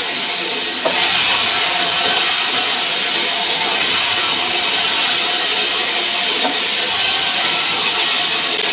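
Background music over a steady, hiss-like noise of a sawmill saw running through a pine log, with a short change in the noise a little under a second in.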